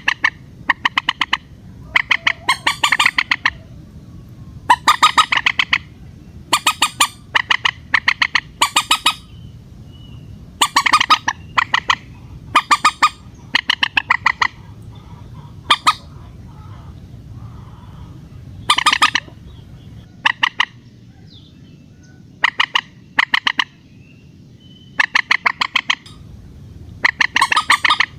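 Common moorhen calling: repeated short runs of rapid, sharp notes, a burst about every second, with a few longer pauses between runs.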